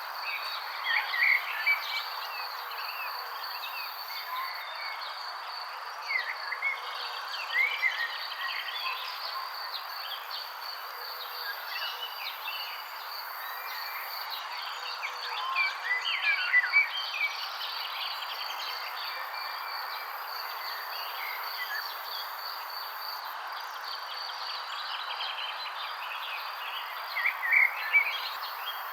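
Birds chirping in short bursts, about four times, over a steady high insect-like trill and a constant background hiss.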